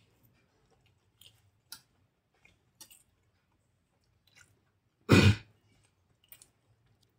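Close-miked chewing of soft idli, with faint wet mouth clicks now and then. About five seconds in comes one short, loud thump, far louder than the chewing.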